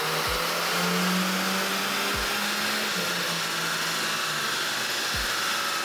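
Mercedes-Benz A200's 1.3-litre turbo four-cylinder, tuned with a piggyback module and drop-in intake filter, running at high revs on a chassis dyno, under a steady whooshing hiss from the rollers and cooling fan. The engine note holds high for about three seconds, then steps down in pitch twice.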